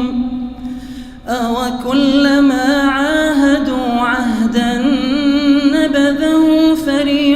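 Male voice chanting Quran recitation in melodic tajweed style, drawing out long wavering notes. The phrase tails off shortly after the start, and a new long held line begins about a second in.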